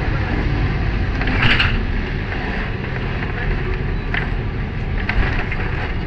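Lisbon tram running along its rails: a steady low rumble with a few short, sharper sounds on top, about one and a half, four and five seconds in.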